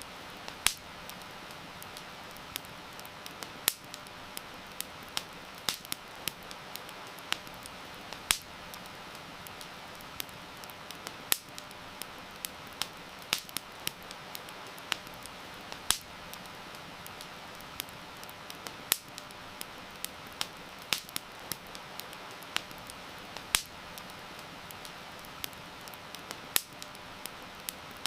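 Wood fire crackling, with sharp irregular pops, some much louder than others, over a steady hiss of rain.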